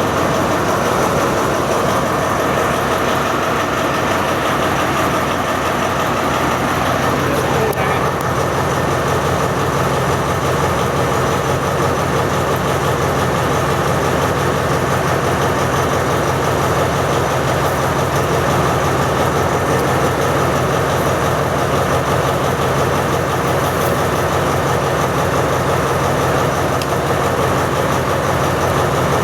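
Alsthom diesel-electric locomotive running steadily, its engine a loud, even drone with little change in pitch.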